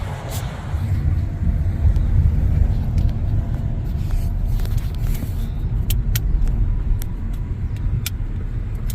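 Steady low rumble of road traffic, a car passing close by, with a few light clicks in the second half.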